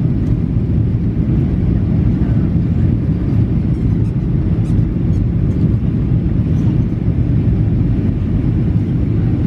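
Steady low rumble of engine and airflow noise inside the cabin of a Boeing 737-800 airliner, with a few faint ticks.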